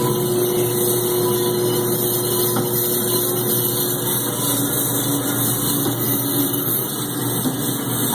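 KB36 bandsaw running steadily under its motor and variable-speed drive. Its hum drops to a lower pitch about halfway through as the blade speed changes.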